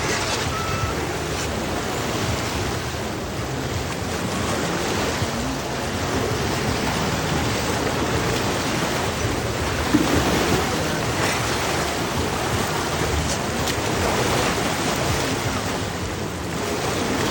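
Steady rushing of river water, with one short louder knock a little past halfway.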